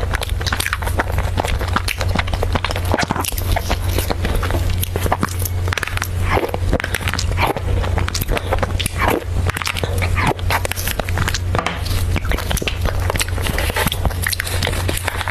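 Close-miked eating sounds of soft cream desserts: rapid wet chewing, smacking and lip clicks, over a steady low hum.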